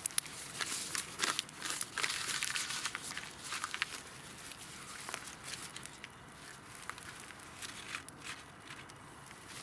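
Irregular crinkling and rustling with sharp clicks, busiest over the first four seconds and thinning out after.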